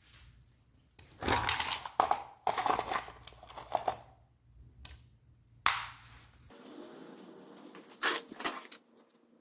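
Small parts being handled and worked on a workbench: irregular scraping bursts and sharp clicks, the sharpest click a little past halfway. A low hum stops a little over two-thirds of the way through, and a faint steady hum with more clicks follows.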